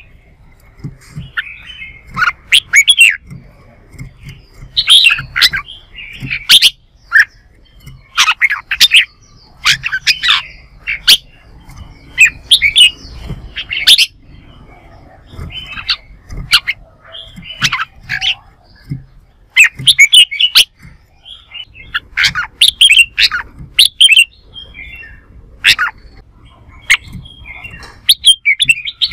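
Red-whiskered bulbuls singing in competition, loud short whistled phrases that sweep up and down, given in quick bursts with brief pauses between them.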